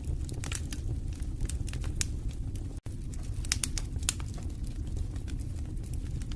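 Wood fire burning in a fireplace: a steady low rumble of the flames with irregular sharp crackles and pops from the burning logs. The sound cuts out for an instant a little under three seconds in.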